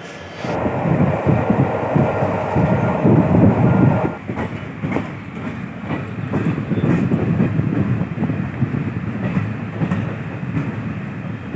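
Train running on the rails: a steady rumble of the carriages with the clickety-clack of wheels over rail joints. It comes in about half a second in, is loudest for the first few seconds, then settles a little lower.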